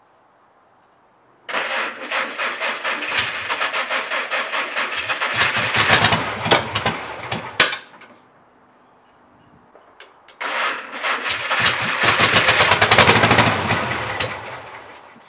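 Air-cooled Volkswagen flat-four engine on a bench stand cranked and catching, firing unevenly in a fast, pulsing sputter that builds louder over several seconds and then cuts off abruptly. About three seconds later it is started again, runs louder for a few seconds, then dies away. These are the first runs after new spark plug wires, a cleaned-out carburetor and adjusted valves.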